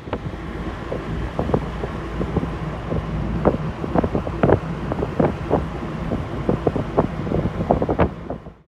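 Heavy wind buffeting the microphone as a steady low rumble, broken by many irregular sharp knocks and crackles. The sound cuts off suddenly near the end.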